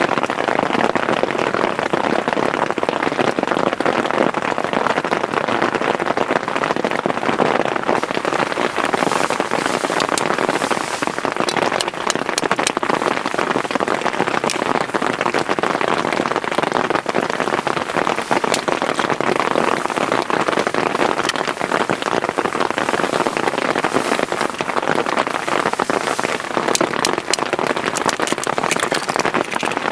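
Heavy rain falling steadily: a dense patter with many sharp single drop hits throughout.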